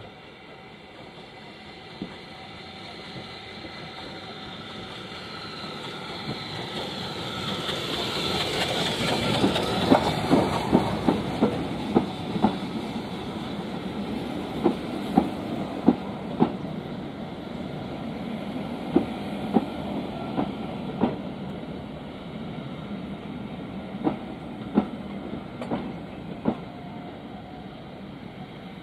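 Steam-hauled passenger train running into a station, growing louder as it nears. Its coach wheels then click over the rail joints as the coaches roll past, the clicks coming further apart as the train slows.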